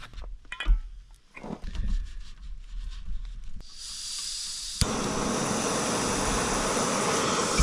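A few scattered clicks and rustles of handling, then a steak hitting a hot cast iron skillet about five seconds in and sizzling loudly and steadily.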